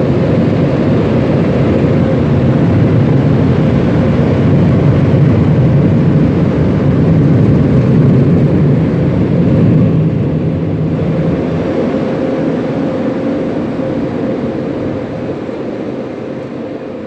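Automatic car wash machinery heard from inside the car: a loud, steady roar with a faint hum running through it, easing off gradually in the second half.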